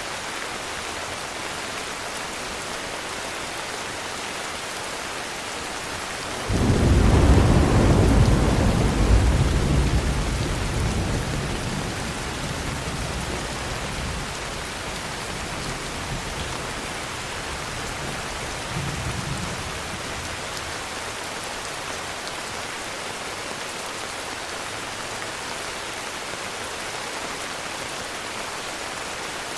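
Steady heavy rain with a clap of thunder about a quarter of the way in: a sudden deep rumble that rolls and slowly fades over several seconds, then a fainter distant rumble about two-thirds of the way through.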